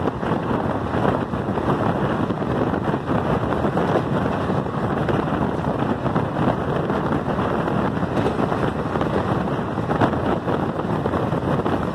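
Steady rushing wind on the microphone over the rumble of a moving train, running evenly with no distinct clicks or other events.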